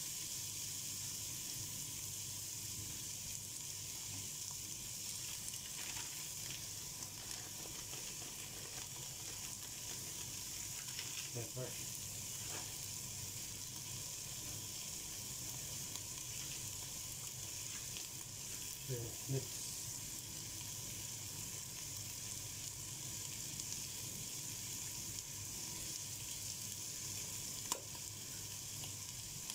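Shrimp frying in a large aluminium pot with a steady sizzle. A few faint knocks come a little before halfway and again about two-thirds through.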